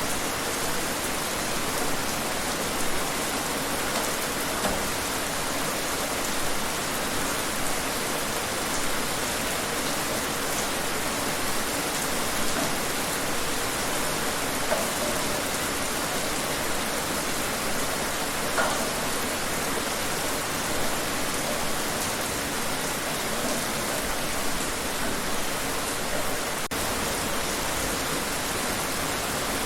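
Steady rainfall, an even hiss of rain on surfaces with scattered individual drops ticking through it.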